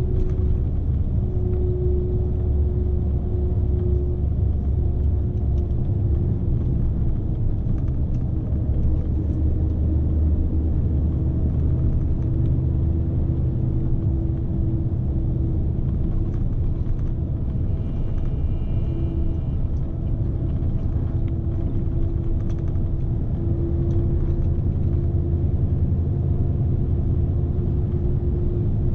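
Scania S520 truck's V8 diesel engine running steadily with road rumble, heard from inside the cab; the engine note shifts slightly in pitch now and then.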